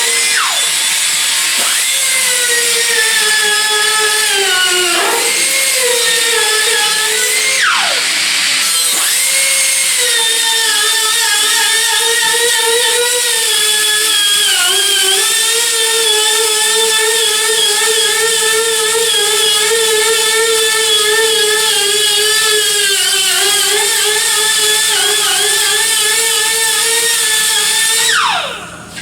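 High-speed handheld power tool motor running. Its pitch dips and recovers several times in the first several seconds as it bogs under load, then it runs fairly steady and winds down near the end.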